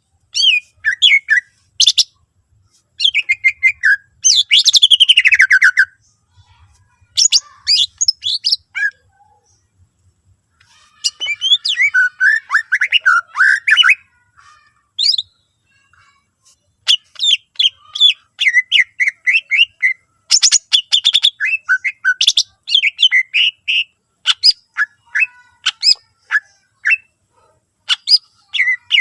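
A cucak ijo (green leafbird) singing loud, rapid, high phrases of trills, chips and sweeping whistles in bursts with short pauses. The song is strung with mimicked phrases of other birds.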